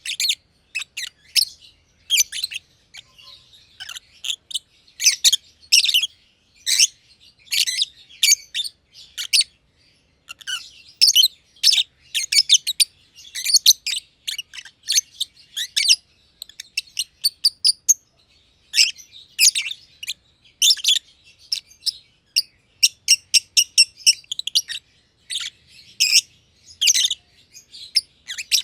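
Masked lovebirds (green and green pied) chirping: quick strings of short, high, sharp chirps, separated by brief pauses.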